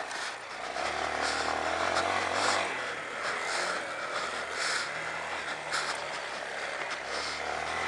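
Honda CRF230L's single-cylinder four-stroke engine running under a rider on a dirt track, its revs rising and falling.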